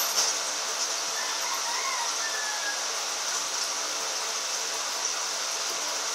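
A steady high-pitched hiss with a few faint bird chirps about a second and a half in, after a brief sharp sound at the very start.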